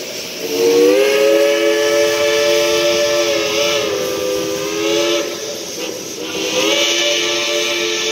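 A steam locomotive's chime whistle blowing a chord of several tones over steam hiss. It slides up in pitch as it opens and blows one long blast, then a second blast after a short break near the end.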